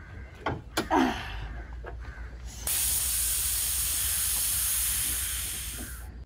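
Steam hissing steadily from an overheated car engine as the bonnet is lifted, starting suddenly and fading away after about three seconds: the engine has run out of coolant. Before it, a few short knocks in the first second.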